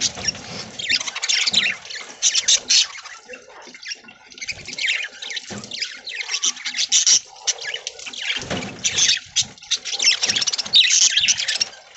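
A flock of budgerigars chattering and squawking continuously in dense, busy overlapping calls, with a few short low knocks among them.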